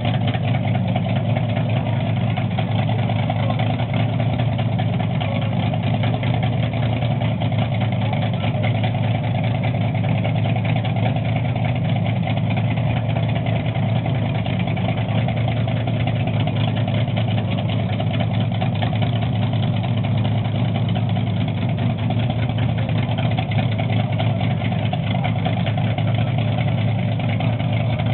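Chevrolet 348 W-series big-block V8 drag engine idling steadily at an even, unchanging speed.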